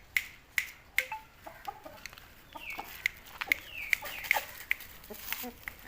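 Aseel rooster clucking: short calls with two falling notes around the middle, over a run of sharp clicks, about two a second at first and then more scattered.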